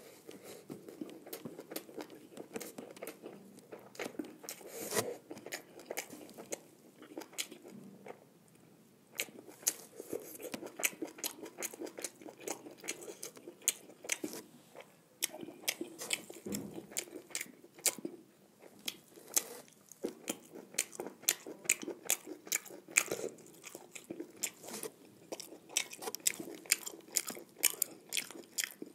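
A person chewing and eating a meal of jeera rice and fried buffalo tongue, with many small irregular mouth clicks and smacks.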